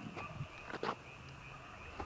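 Frogs calling in a steady, high, pulsing chorus, with a few short footsteps or rustles in the first second.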